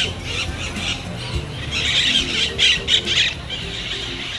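A flock of Pacific parakeets calling with harsh, screechy squawks, with a dense run of loud calls about two seconds in. Music plays faintly underneath.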